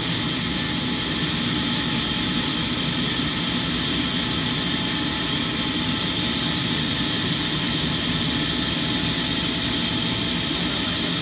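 Sawmill machinery running with a steady, even mechanical drone.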